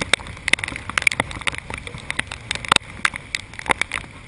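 Wind-driven rain beating on glass: irregular sharp taps of drops, several a second, over a steady hiss.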